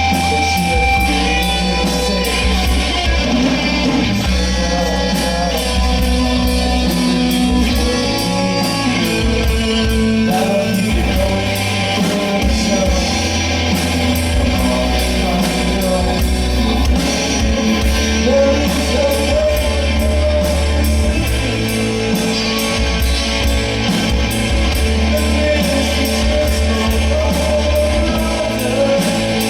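Live rock band playing a song with a singer, over a steady drum beat.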